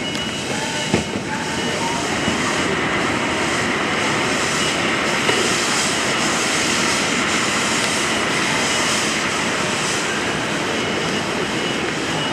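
C57 1 steam locomotive giving off a steady rushing noise of steam, with one sharp knock about a second in.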